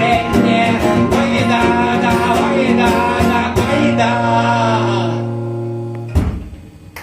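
Acoustic guitar strummed under a wordless male vocal, closing a song: the final chord is held and fades out about five to six seconds in, followed by a single sharp thump.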